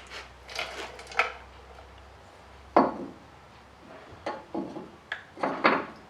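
Metal door-hinge parts clinking and knocking as the pins and bushings are handled and fitted, with about eight sharp knocks at irregular intervals and the loudest near the middle.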